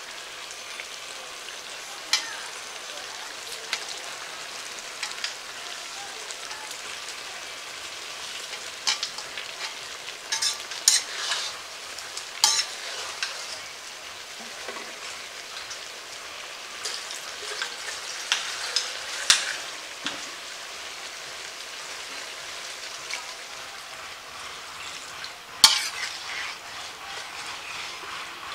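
Hilsa fish and eggplant curry sizzling steadily in oil in a large metal wok, with a metal spatula scraping and clinking against the pan now and then.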